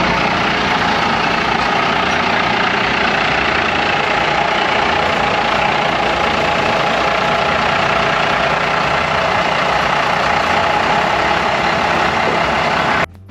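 Truck engine running steadily at an even level, with no change in pitch. It starts and stops abruptly at edits.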